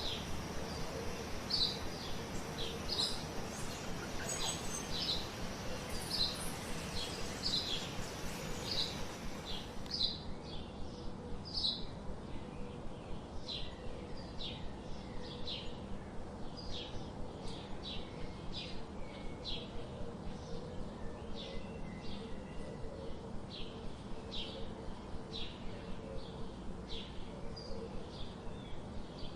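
A bird calling with short, high chirps repeated over and over, about two a second, over a steady background hiss.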